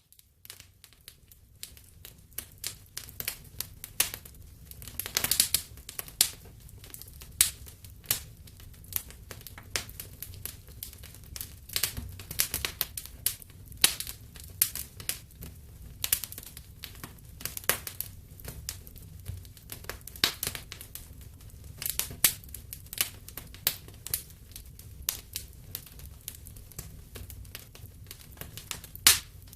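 Wood fire in a fireplace crackling: frequent sharp, irregular pops over a low steady rumble of the flames. It rises in from silence at the start.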